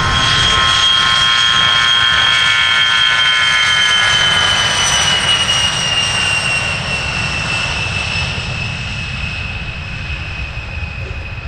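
Airplane engine passing by: a loud rumble under a high whine that slowly falls in pitch and fades toward the end.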